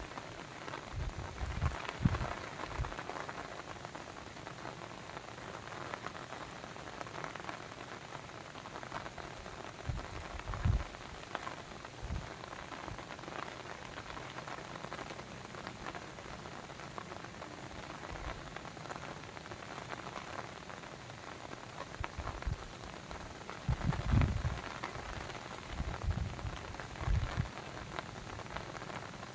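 Steady rain patter, with a few heavier drops thudding close by, the strongest about two seconds in, around ten seconds in and in a cluster near the end.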